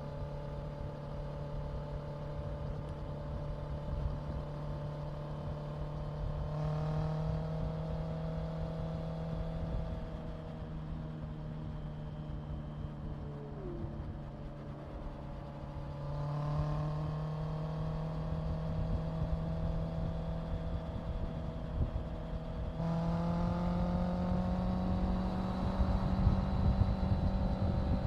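Honda CBR650F's inline-four engine running under way on the road, with wind rumble underneath. Its note jumps up sharply three times as the throttle is opened, getting louder each time, and eases back in between.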